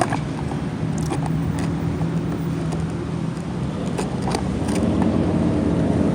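A motor vehicle engine running with a steady low hum that grows louder near the end, with a few sharp clicks.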